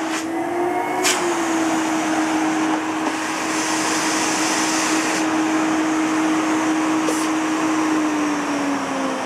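Elektro Helios ES908E canister vacuum cleaner's 850 W motor running with a steady whine over rushing air. Two sharp clicks come within the first second or so, and the whine's pitch sinks slowly near the end.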